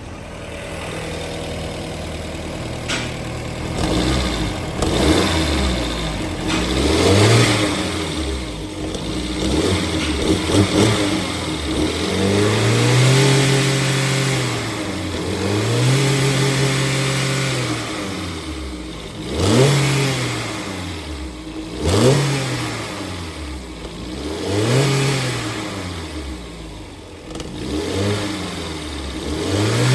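2017 Jeep Renegade's 2.4-litre inline-four engine idling, then revved again and again: quick blips and a few longer pulls that rise and fall back to idle, about ten in all.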